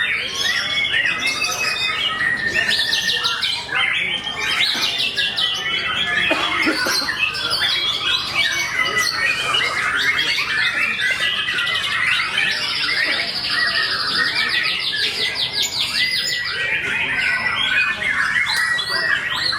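A white-rumped shama (murai batu) singing among other songbirds, their varied phrases dense and overlapping. A long, fast, even trill runs for about two and a half seconds past the middle.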